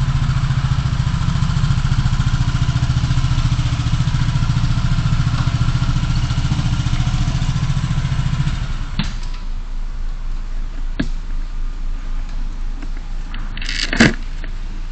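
A vehicle engine runs steadily, then its hum stops about nine seconds in. A couple of sharp clicks follow, and near the end comes a loud thump with a short hiss.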